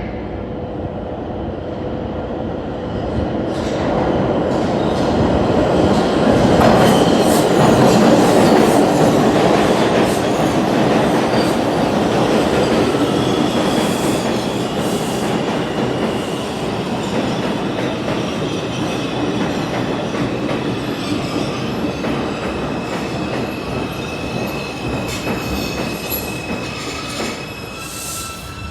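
New York City Subway 2 train pulling into a subway station and slowing, its wheels clattering on the rails. It grows loudest about a quarter of the way in, then eases off, with high wheel squeals in the second half as it brakes.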